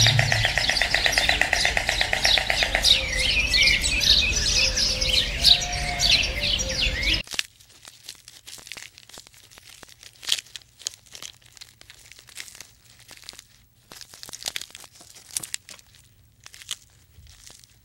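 Small birds chirping and twittering in a dense chorus, with a fast pulsing trill in the first few seconds. After about seven seconds it cuts off suddenly to a much quieter stretch of scattered soft clicks and rustles.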